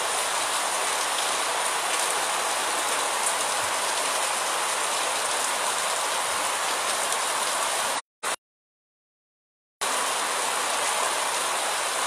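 Steady rain falling on the town's roofs and streets, an even constant hiss. Near the end the sound cuts out completely for about two seconds, then returns unchanged.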